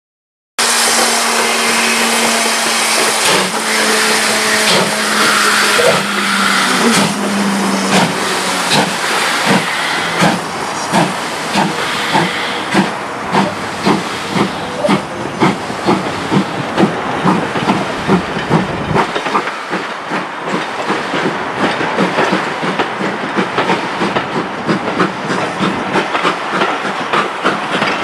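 Two-cylinder 4-6-0 steam locomotive hissing with steam, then pulling away with distinct exhaust beats, about two a second, that quicken and blend together as it gets under way.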